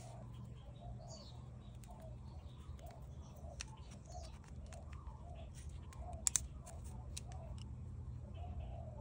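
A bird calling over and over, about two short notes a second, over a low steady hum, with two sharp clicks about six seconds in.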